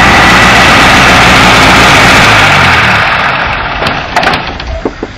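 Lada rally car's engine running loudly as the car drives across grass, its note dropping about two and a half seconds in as it slows, then fading away.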